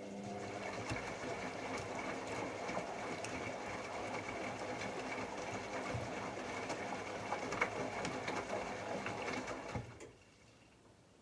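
AEG Lavamat L74810 washing machine turning its drum during the wash: the motor starts with a hum, then runs about ten seconds with a steady whine, the load knocking and swishing in the drum, and stops suddenly.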